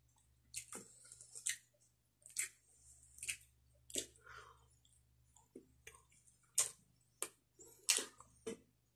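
Close-miked eating sounds of a person chewing grilled fish and rice eaten by hand: about a dozen short, irregular wet smacks and clicks of the mouth, over a faint steady low hum.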